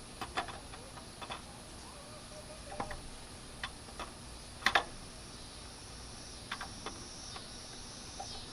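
Sparse, irregular light clicks of a ratchet slowly tightening a plastic PCV valve into the engine's valve cover, with a quick double click a little before the middle.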